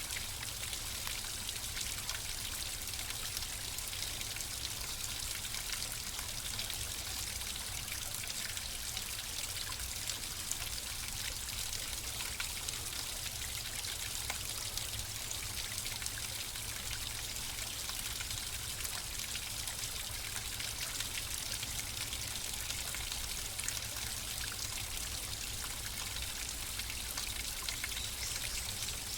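Flowing water: a steady trickling stream with fine splashing and bubbling.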